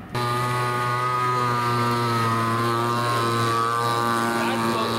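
Small two-stroke model engine of a gas radio-control craft running steadily at a constant high speed, with a buzzing, even pitch. It cuts in suddenly right at the start.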